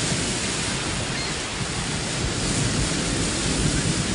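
Storm surf: large waves breaking on a rough sea, a steady rush of noise.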